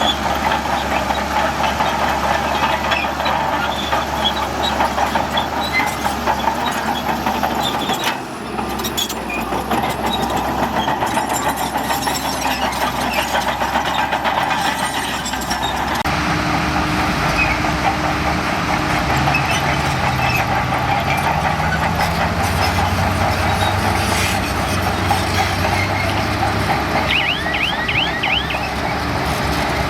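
Heavy diesel earthmoving machinery running steadily under load with a dense mechanical clatter; the sound changes character about halfway through, and a brief high squeal comes near the end.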